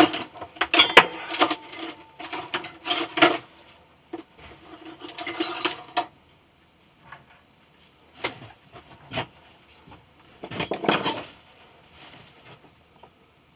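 Metal hand tools clinking and clattering as they are picked up and moved about, rummaged through in several short bouts with pauses between.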